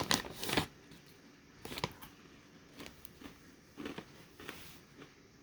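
Crunchy granola being bitten and chewed: a cluster of louder crackles at the start, then faint scattered crunches about once a second.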